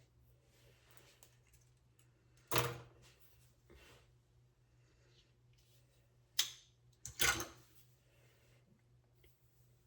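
Three short handling noises against a low steady hum in a small room: one about two and a half seconds in, then two close together near the middle.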